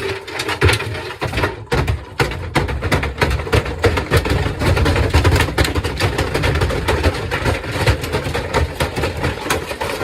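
Samsung washing machine running with bricks loaded in its drum: a loud, continuous clatter of rapid brick impacts over a heavy low rumble from the machine.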